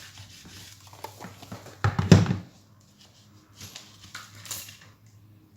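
Handling noises on a work surface: light scraping and clicks, with one louder thud about two seconds in and a few more small knocks near four seconds, then quiet.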